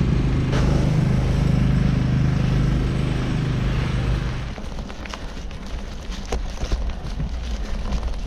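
Heavy diesel vehicle engine running close by with a steady drone, which drops away about four and a half seconds in. Scattered light clicks and rustling follow.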